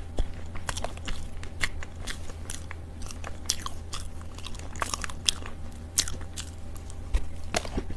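Chunks of loess (dry earth) being bitten and chewed, giving irregular soft crunches, a few a second, over a steady low hum.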